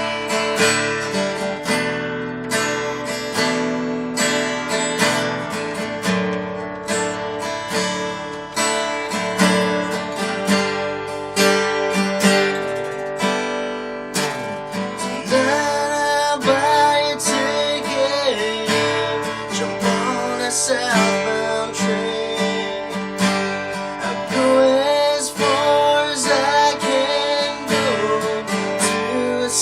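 Acoustic guitar strummed in a steady country rhythm, with melody lines that bend in pitch in the second half, playing through a stretch of the song without lyrics.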